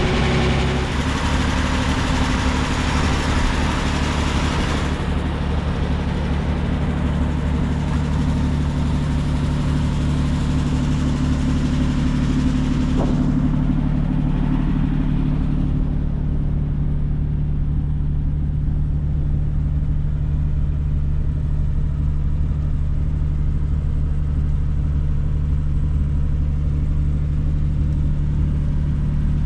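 1941 Plymouth Special Deluxe's flathead straight-six running steadily after a cold start. A higher hiss over the engine fades out about five seconds in, and again around the middle.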